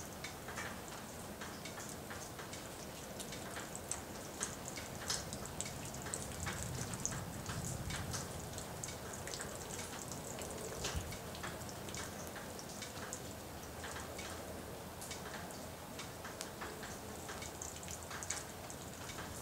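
Rain falling, with irregular drops and drips ticking sharply close by over a steady hiss.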